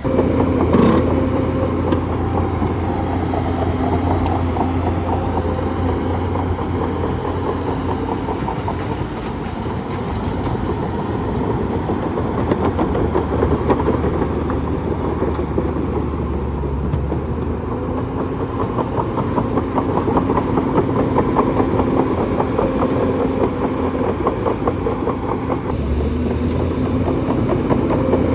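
Bulldozer's diesel engine running steadily under a fast, continuous clatter.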